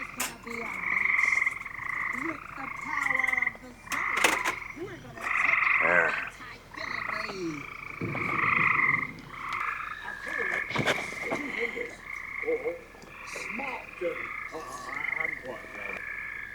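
A chorus of frogs calling, many overlapping trilled calls repeating one after another, with a few sharp clicks in among them.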